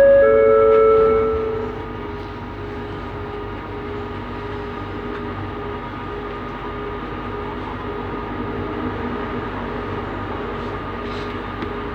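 A loud two-note falling chime from the Bombardier Innovia Metro 300 train's on-board system, then the steady hum and whine of the train heard from inside the car.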